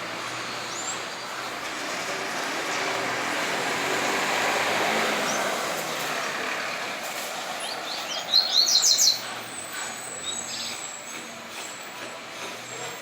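A vehicle passing, a rush of noise that swells and fades with its peak about four to five seconds in, with faint papa-capim seedeater chirps. About eight seconds in, a loud, quick run of high seedeater notes lasting about a second.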